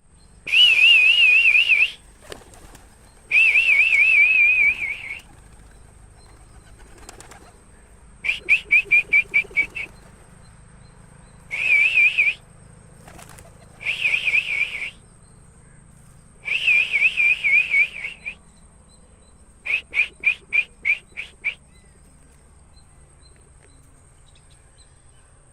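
A shrill warbling whistle sounded again and again, some blasts held for a second or two and others given as quick runs of five or six short toots, with quiet gaps between them.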